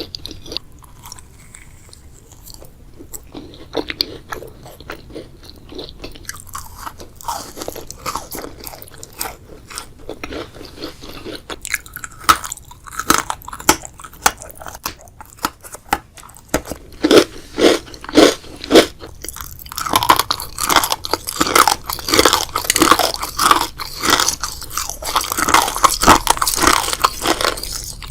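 Close-miked eating sounds: biting into and chewing crisp, crunchy foods in a steady irregular run of crunches. Fainter for the first several seconds, then louder and denser crunching in the last third.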